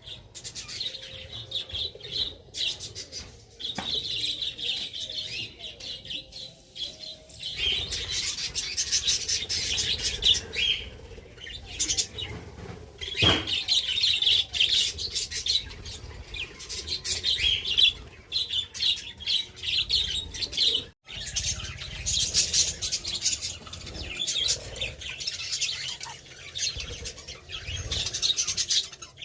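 A colony of budgerigars chattering and chirping together, a dense run of short high calls that briefly drops out about two-thirds of the way through.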